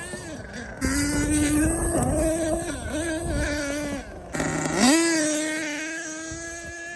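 HPI Savage X 4.6 nitro monster truck's small glow-fuel engine screaming under throttle, its pitch dipping and rising as the throttle is worked. About four and a half seconds in it revs sharply upward and holds a steady high note while fading away.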